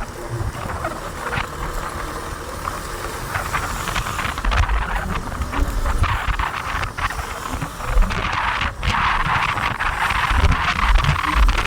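Steady hiss of rain and wet road with irregular gusts of wind rumbling on the microphone, heard while riding a motorbike in the rain; the hiss grows louder from about four seconds in.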